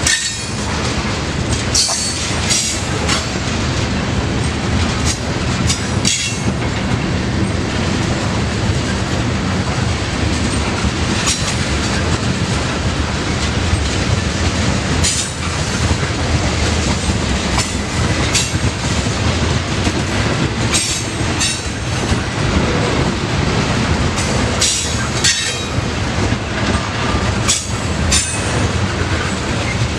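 Freight train cars rolling steadily past, loud, with wheels clicking over rail joints and brief high wheel squeals now and then.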